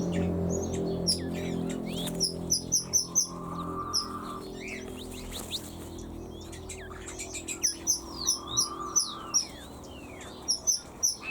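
Small birds in an aviary chirping: quick runs of short, high chirps in bursts of four or five, with some sweeping, falling calls between them. A low steady hum underneath fades out in the first few seconds.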